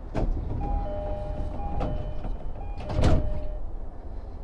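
Door-closing chime of an E233-series commuter train, a repeating two-note electronic tone, with a loud thud about three seconds in as the sliding doors shut.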